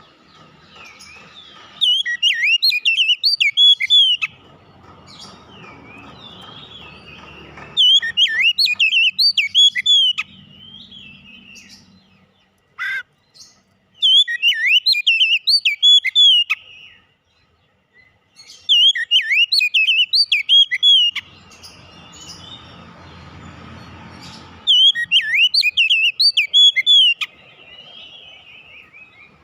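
Oriental magpie-robin (kacer) singing: five loud bouts of rapid, varied whistled phrases, each about two and a half seconds long and coming every five to six seconds, with one short note in between.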